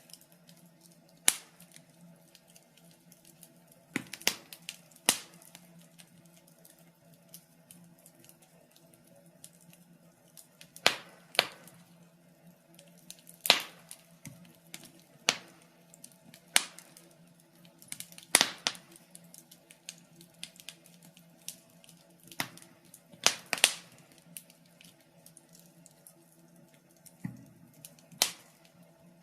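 Wood fire in an open fireplace crackling: sharp, irregular pops and snaps, about a dozen loud ones spread unevenly, some coming in quick pairs, with fainter crackles between.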